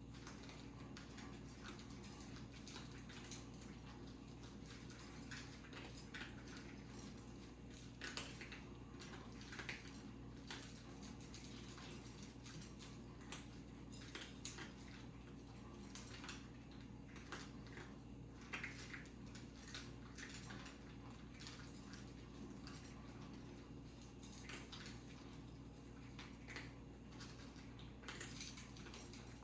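Cats eating from bowls: faint, irregular small clicks and clinks of food and dishes, over a steady low hum.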